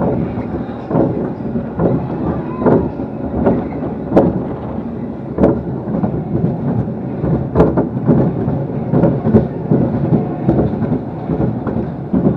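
Amusement ride car rumbling and clattering along its track, with irregular sharp knocks over a steady loud rumble.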